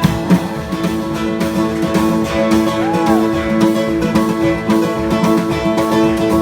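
Acoustic guitar playing the instrumental outro of a folk ballad, with strummed chords under held and picked notes.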